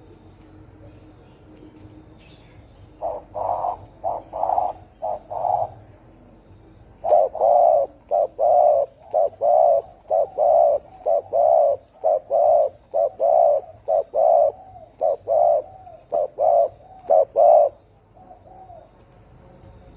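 Spotted dove cooing: a short phrase of four coos about three seconds in, then a long, fast run of low, hollow coos from about seven seconds until near the end. This is the rapid 'thổ' cooing call used to provoke rival doves.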